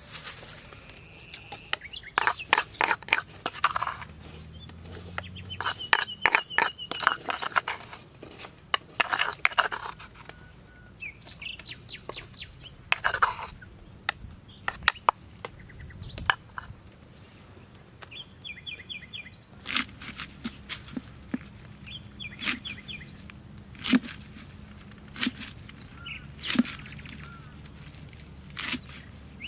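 Birds chirping, with a high note repeating about once a second, over scattered knocks and clicks.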